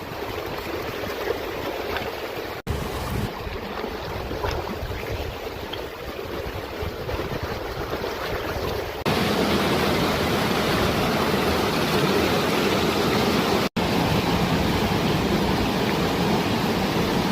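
Mountain stream water rushing steadily, becoming louder and fuller about nine seconds in, with two very short dropouts.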